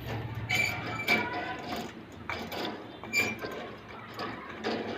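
Lovebirds making short, sharp chirps and clicks, irregular, about two a second.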